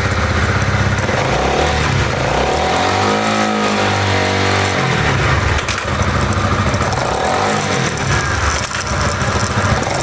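Honda CBR motorcycle engine running, with its newly fitted RCB drive chain turning. It revs up about two and a half seconds in, holds, and drops back near five seconds, then runs on steadily. This is a check of chain noise after replacing a noisy stock chain.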